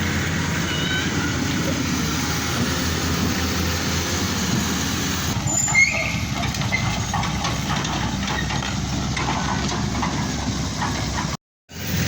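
Heavy diesel engines running steadily, with a brief high squeak about six seconds in. The sound drops out completely for a moment near the end.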